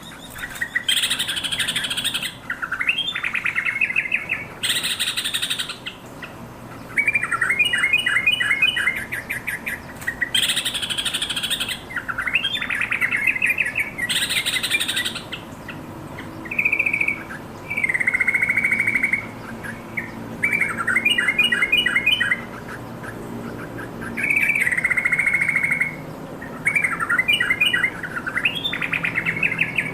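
Yellow-vented bulbul singing. Short, bubbly phrases of rapid notes, each about a second long, are repeated over and over with brief pauses between them.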